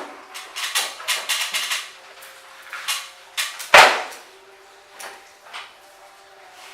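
Irregular clicks and knocks of tools and parts being handled, with one sharp, loud knock a little past the middle.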